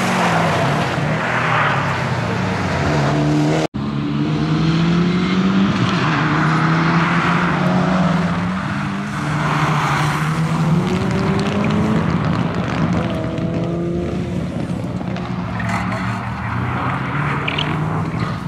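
Toyota GR Yaris's turbocharged 1.6-litre three-cylinder engine driven hard, its pitch climbing and dropping again and again as the car accelerates, shifts and lifts through corners. The sound drops out for an instant about four seconds in.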